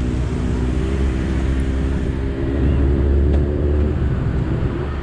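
Motorbike engine running steadily in city traffic under a heavy low rumble, its hum fading a little about halfway through.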